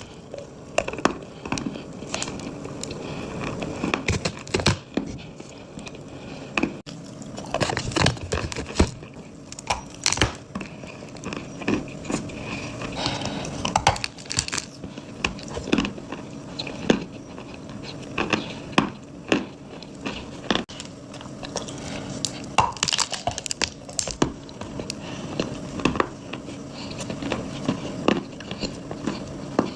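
Dry clay being bitten and chewed close to the microphone: irregular sharp crunches and crackles, some louder bites standing out.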